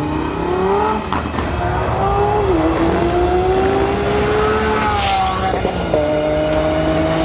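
Sports-car engine sound laid over the shots, pulling up in pitch under acceleration. It dips at gear changes about one second and two and a half seconds in, drops again around five to six seconds, then climbs slowly and steadily.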